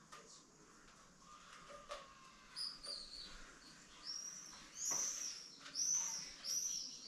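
Small bird chirping: a string of short, high, arched chirps, about two a second, starting about two and a half seconds in and growing louder toward the end. A few faint knocks are also heard.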